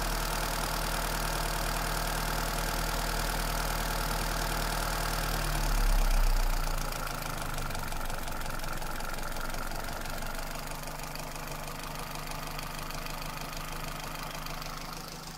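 Toyota Celica's 2ZZ-GE 1.8-litre four-cylinder engine running at idle with a knock in the engine. It swells briefly about six seconds in, then settles a little quieter.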